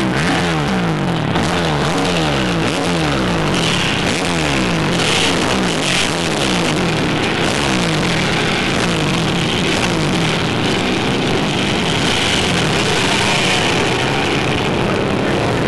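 Dirt bike engine revving up and falling back again and again under changing throttle, over a steady rush of wind noise.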